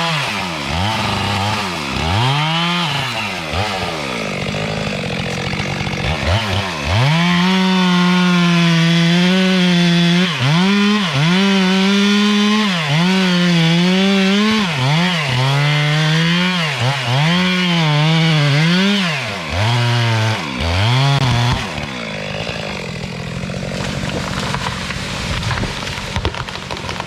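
Two-stroke chainsaw revving in repeated bursts, then held at high revs with brief dips for about twelve seconds while cutting into wood, and dropping back to a steady idle near the end.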